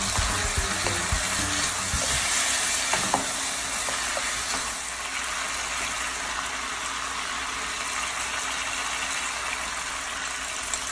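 Chicken wings and bitter melon sizzling steadily in hot oil in a frying pan, stirred with a wooden spatula.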